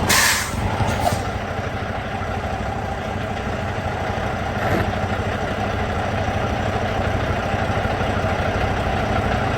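Vehicle engine idling steadily with a low, pulsing rumble, and a brief hiss right at the start.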